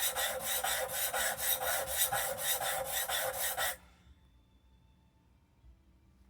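Block plane blade being honed on a sharpening stone, its bevel scraped back and forth in quick, even strokes, about four a second, with light pressure to raise a burr. The strokes stop abruptly a little under four seconds in.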